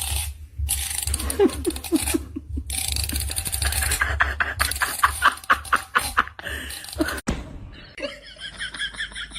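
A person laughing in rhythmic bursts, about four a second. A few seconds before the end it cuts to a different high-pitched repeating sound.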